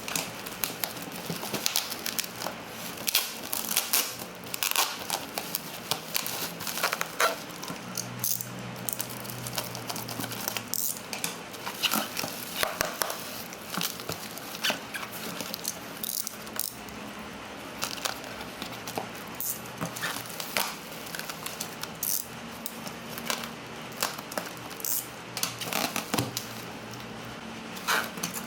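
Plastic packaging crinkling and rustling in irregular handfuls as orders are packed, over a steady background hiss.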